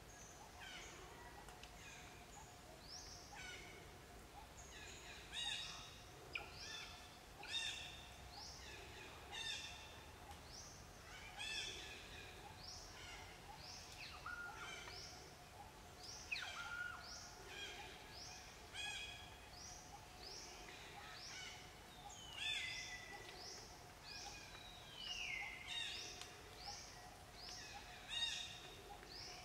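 Birds calling over and over: short, high notes that sweep downward in pitch, one or two a second, over a faint steady drone.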